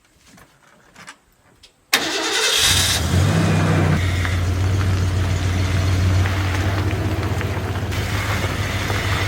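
A car engine starts about two seconds in with a sudden burst, rises briefly, then settles into a steady idle. A few faint clicks come before it.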